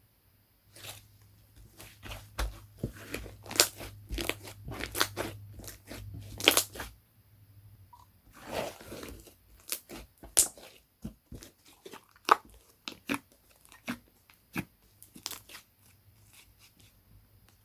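Slime being played with by hand: a run of sharp sticky clicks and pops, dense for roughly the first seven seconds and then sparser and more spread out.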